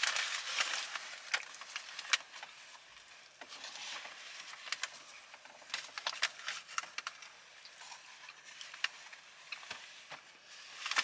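Close-miked eating sounds: chewing with wet mouth clicks and crackles, coming in clusters.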